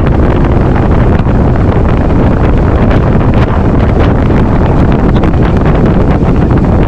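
Steady, loud wind rush buffeting the microphone aboard a fishing boat running at speed, with the boat's motor and water noise underneath.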